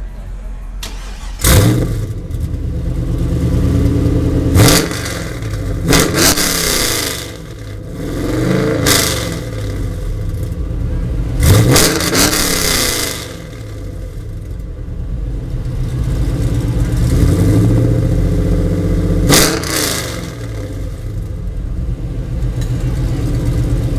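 LS1 5.7-litre V8 of a 2002 Trans Am WS6 running through long-tube headers and an off-road Y-pipe with no catalytic converters, revved in about six sharp blips that fall back between them.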